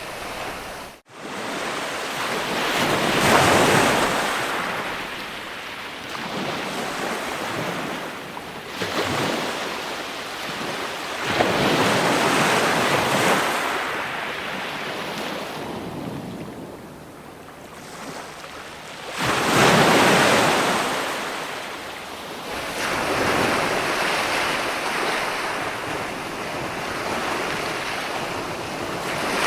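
Ocean surf: waves breaking and washing in slow swells, with a loud crash about every eight seconds and quieter wash between. The sound drops out sharply for an instant about a second in.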